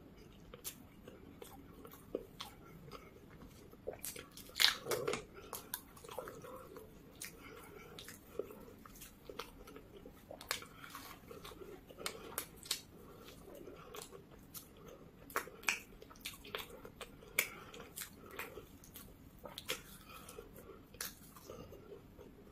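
Close-miked biting and chewing of a fried samosa: irregular wet mouth smacks and soft crunches of the pastry, the loudest bites about four to five seconds in.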